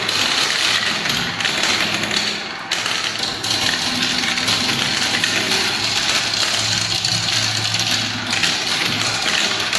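Many marbles rolling and clattering down a spiral marble-run ramp, a dense, continuous rattle with a brief lull about two and a half seconds in.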